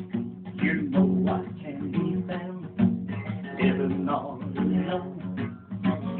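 Music: a guitar being strummed.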